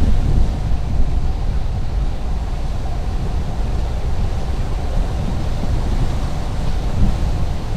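Steady low rumble of a car driving along a highway: tyre and engine noise with no breaks or changes.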